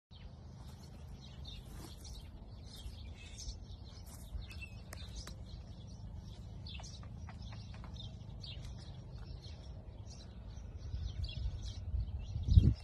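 Small birds chirping repeatedly over a steady low rumble. Louder low thumps and rustling come in near the end, the loudest just before it stops.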